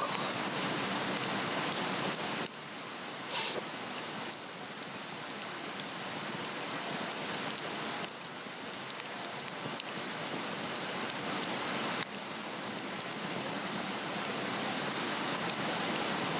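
Swedish torch log fire burning on a fire stand: a steady rushing hiss with scattered small crackles as the fire picks up. The hiss drops suddenly a few times.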